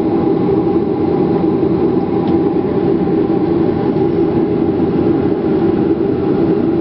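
Steady cabin noise of a Boeing 737-400 heard from inside the cabin: an even, loud rumble of the airframe and its CFM56 jet engines running, with a faint steady whine above it.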